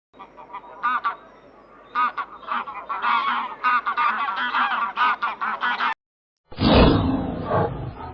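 A flock of birds honking, many short calls overlapping in quick succession, stopping about six seconds in. Shortly after, a louder and rougher animal sound begins.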